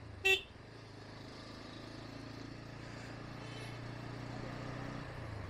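Motorcycle engine, a Bajaj Pulsar N160's single-cylinder, running steadily on the move and slowly growing louder. A brief beep sounds about a third of a second in.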